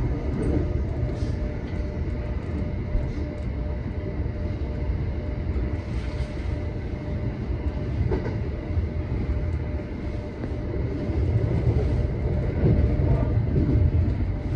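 JR local electric train running along the line, heard from inside the front car: a steady low rumble of wheels on rail with faint steady motor tones. The rumble swells slightly for a few seconds near the end.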